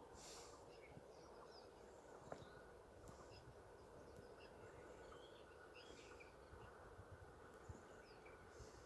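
Near silence outdoors: faint, scattered short bird chirps over a low steady background hum.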